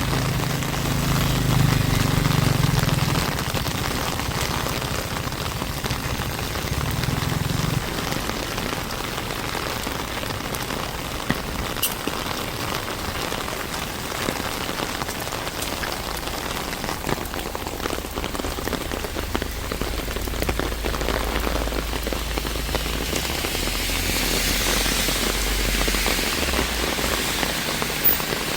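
Steady rain falling, an even hiss of drops, with a low hum that dies away in the first several seconds.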